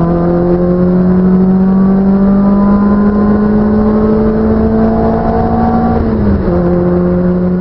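Car engine pulling under acceleration, its note slowly rising. About six seconds in there is a gear change: the note drops, then starts climbing again.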